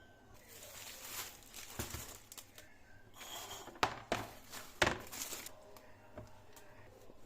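Rustling and crinkling, as of packaging or paper being handled, with a few light knocks and clicks scattered through it, the loudest about four to five seconds in.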